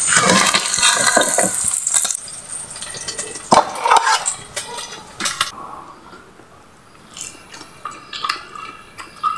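Egg omelette sizzling in hot oil in a steel wok, loudest for the first two seconds and dying out about five and a half seconds in. A couple of sharp clanks sound around three and a half to four seconds in, followed by a few light clicks.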